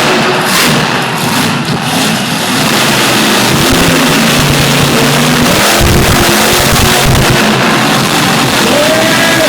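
Monster truck engine revving hard at full throttle, loud throughout, with the revs pulsing through the middle of the stretch.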